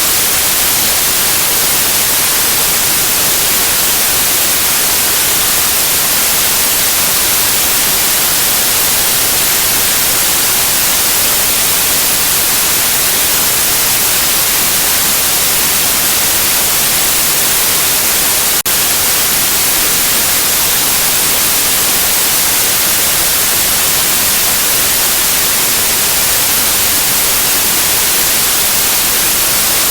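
Steady white noise, a loud even hiss strongest in the high range, with one brief click about two-thirds of the way through.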